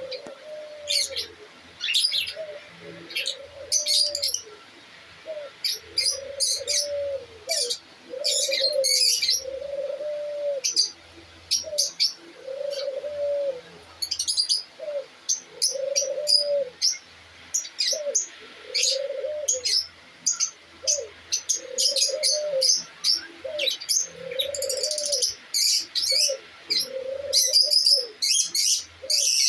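Aviary birds: a dove cooing over and over in short arched notes, about one every second and a half, with the rapid high chirping and tweeting of small cage birds over it.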